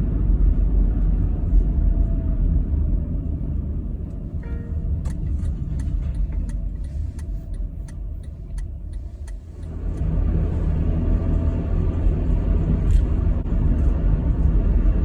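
Car running on the road with a steady low rumble of engine and tyre noise, easing off about two thirds of the way through and picking up again. A run of evenly spaced sharp clicks sounds while it eases off.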